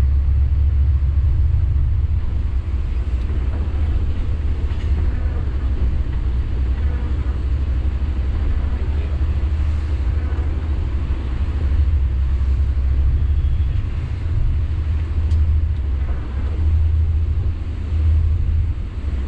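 Sany 6x4 dump truck's diesel engine running under way, a steady low drone mixed with road rumble.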